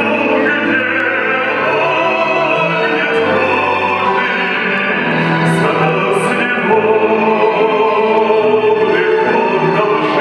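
Operatic-style singing with orchestral accompaniment, the voice holding long notes.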